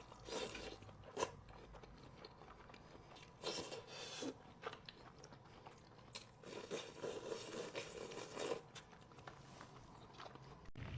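Close-miked biting and chewing, with crunching and clicky mouth noises in three spells of a second or two each.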